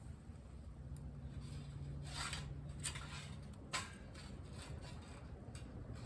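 A few short scraping, rustling handling sounds, three of them within about two seconds, over a faint low steady hum.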